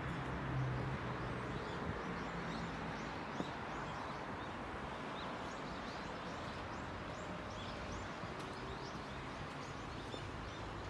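Birds chirping over a steady outdoor background hiss. Many short, high, rising chirps come one after another, with a low hum in the first second or so that fades out.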